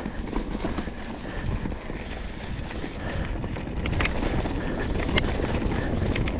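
Mountain bike riding down a rough singletrack: wind buffeting the action-camera microphone over the rumble of tyres on dirt, with sharp clicks and rattles from the bike, the loudest around four and five seconds in.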